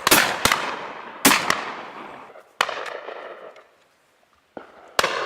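Shotguns firing at driven game birds: a string of sharp shots about a second or so apart, some loud and close, others fainter. Each shot trails off in a long echo.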